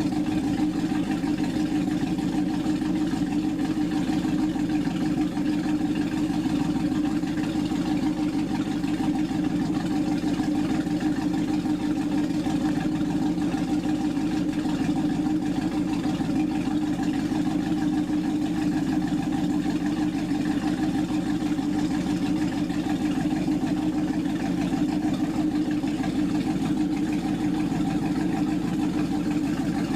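Chris-Craft performance boat's engine running steadily at an even pitch.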